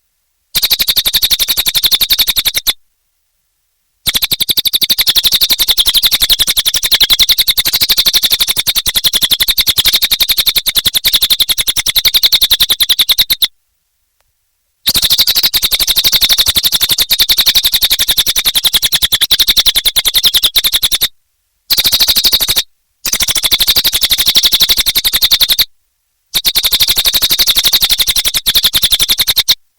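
A cililin songbird singing a long, very rapid chattering trill of high notes. It comes in bouts of several seconds, cut off by about five short, dead-silent breaks.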